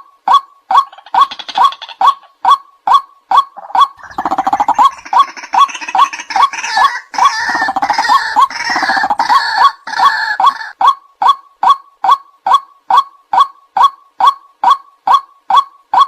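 White-breasted waterhen calling: a steady run of short 'kwak' calls, two to three a second. From about four seconds in, a denser, louder stretch of overlapping harsh calls joins in for about seven seconds before the single repeated calls carry on.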